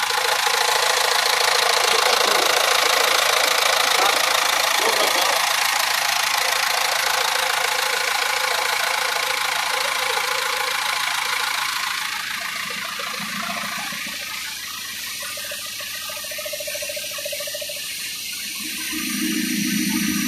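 MAN diesel engine, newly swapped into a GAZ-3309 truck, running on its first start. It runs steadily, gets quieter about twelve seconds in, and swells again with a steadier, lower tone near the end.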